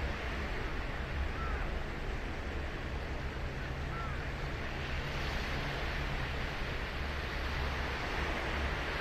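Ocean surf on a sandy beach: waves breaking and washing in a steady rush, swelling louder about halfway through.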